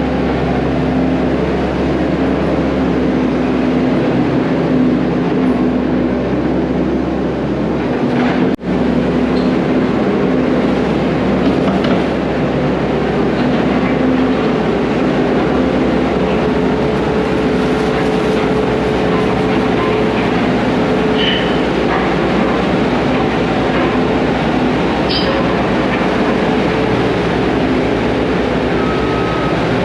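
Heavy earthmoving equipment running steadily, a continuous engine drone and rumble, with a brief break about eight and a half seconds in.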